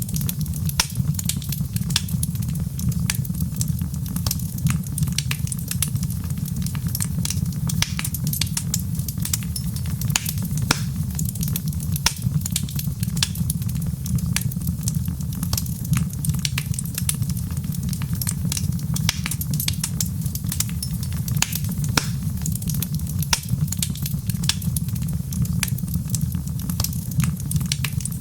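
Wood fire crackling in a fireplace: a steady low rumble of the flames with many sharp, irregular pops and snaps.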